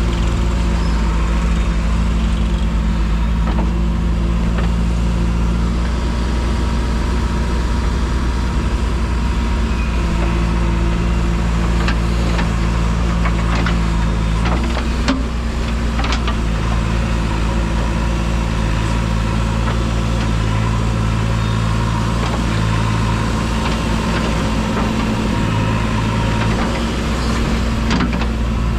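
Heavy diesel engine of a working machine running at a steady speed, its note shifting a few times, with a few sharp knocks.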